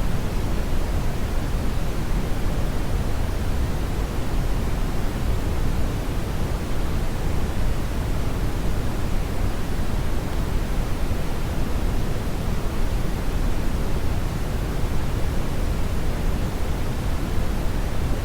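Steady synthetic brown noise: a constant deep rushing hiss, heaviest in the bass and falling off toward the treble, unchanging throughout.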